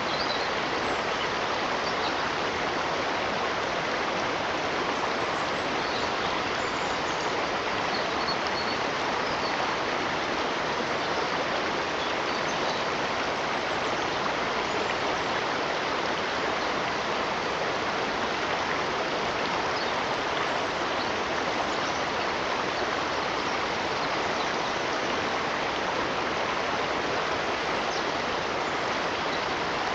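Stream water running steadily, a constant rush with no breaks. Faint brief high notes sound now and then above it.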